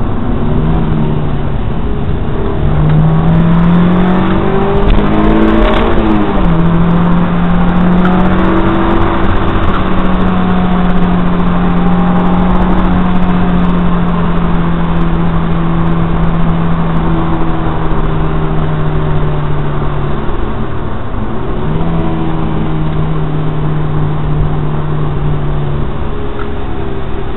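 Honda S2000's four-cylinder engine heard from inside the cabin while driving, under steady road and wind noise. Its note rises as the car accelerates and drops sharply about six seconds in, as at an upshift. It then holds a steady pitch, with a brief dip a little after twenty seconds.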